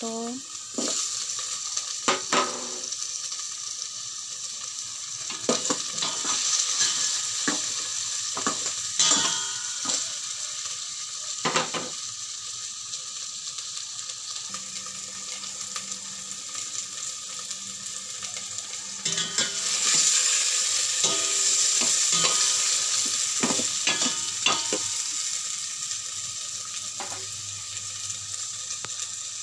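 Chopped tomatoes, onion, garlic and ginger sizzling in hot oil in a stainless steel pot, with scattered knocks and scrapes of a utensil stirring against the pot. The sizzle grows louder about two-thirds of the way through, then eases off.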